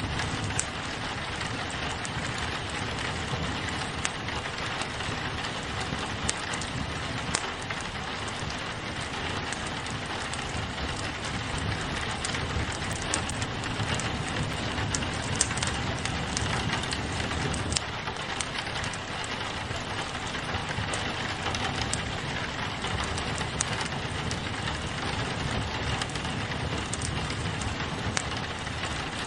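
Steady rain on a window pane mixed with a crackling wood fire, with scattered sharp clicks and a few louder pops over the even hiss.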